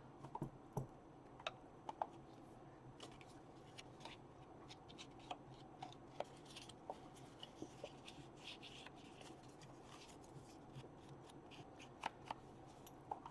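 Faint rustling of paper with scattered small clicks and taps as paper inserts and an ink pad are handled for inking the edges, with a few soft scrubbing patches partway through.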